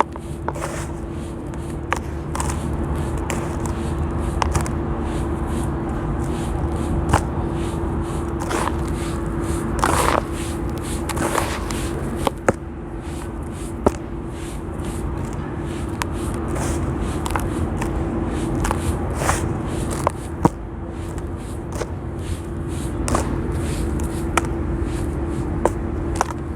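Crispy sand blocks crumbling and crunching, with frequent sharp cracks and crackles over a steady low hum.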